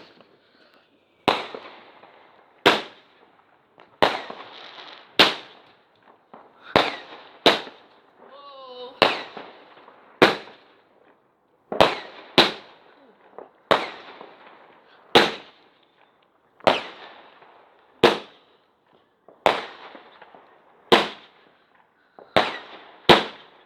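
Firework barrage going off: a long run of sharp bangs roughly every one to one and a half seconds, each trailing off briefly.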